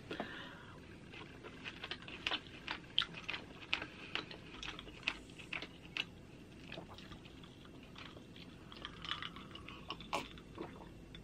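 Quiet mouth sounds of a person chewing pork chop meat: irregular wet clicks and smacks. In the second half she sips from a glass of ice water.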